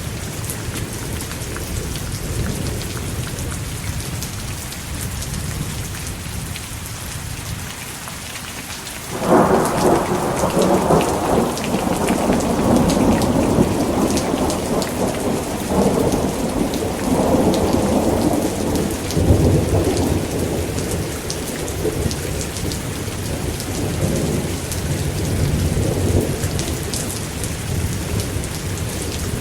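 Steady heavy rain, with a thunderclap breaking in suddenly about a third of the way through and rolling on in several swells of low rumble that slowly ease off.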